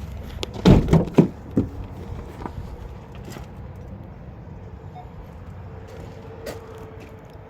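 Three loud thumps in quick succession about a second in, then a steady low rumble with a faint steady hum coming in near the end.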